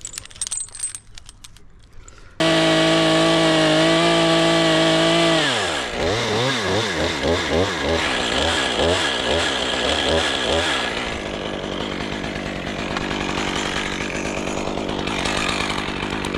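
Chainsaw starting up loud at full revs about two seconds in, its pitch dropping as it takes load. Its revs then rise and fall repeatedly for several seconds while it works the wood, settling into a rougher, steadier cutting sound near the end.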